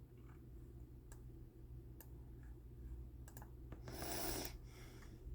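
Faint scattered clicks of a computer being operated, about half a dozen spread over a few seconds above a low steady hum, with a short breathy hiss about four seconds in.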